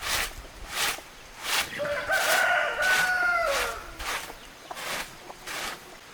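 A rooster crows once, a single drawn-out call of about two seconds that drops in pitch at the end. Behind it runs a regular rhythm of short, hissy strokes, about three every two seconds.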